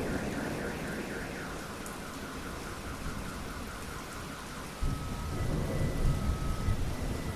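Steady rain with thunder. A rumble fades away over the first few seconds, and a new low rumble of thunder starts suddenly about five seconds in.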